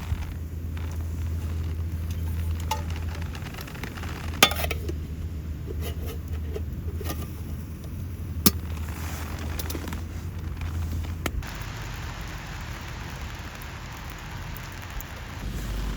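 Food sizzling over a fire, with a few sharp metallic clinks, two of them standing out about four and eight seconds in. A low steady hum underneath stops about eleven seconds in.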